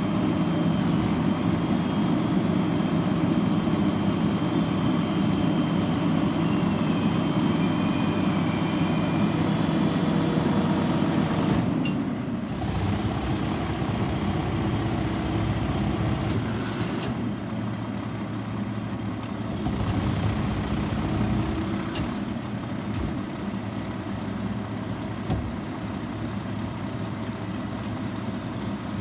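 Garbage truck's diesel engine running steadily, loudest for the first dozen seconds and then quieter. A few short high-pitched squeals and sharp clicks come through over it.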